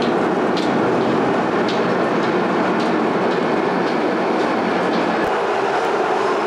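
A rail vehicle running along the track: a steady rumble with faint light clicks of wheels over the rails every half second or so.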